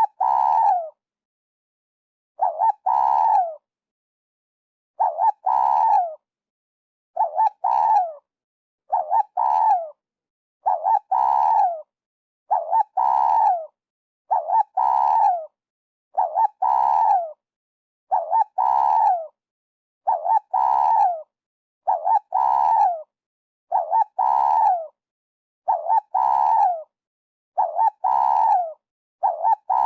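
Spotted dove cooing: the same call phrase repeated about every two seconds, each a short note followed by a longer note that falls at its end, with silence between phrases.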